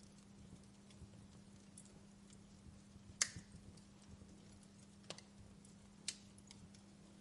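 Wood fire burning quietly, with faint crackling and a few sharp pops of the burning logs, the loudest about three seconds in and two more near the end.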